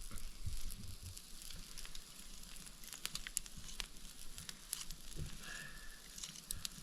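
Campfire crackling with scattered sharp pops, over a faint sizzle of meat cooking in butter.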